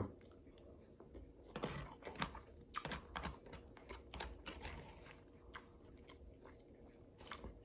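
Quiet close-up eating sounds: scattered, irregular clicks and small wet crunches of chewing and mouth movement.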